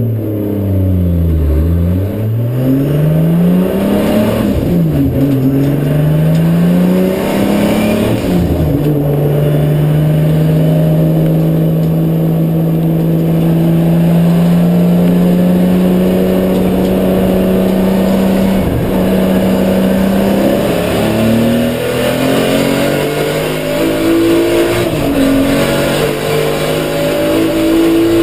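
Drift car's engine heard from inside the cabin. It revs up and down sharply over the first several seconds, holds one steady high pitch for about ten seconds, then rises and falls again near the end.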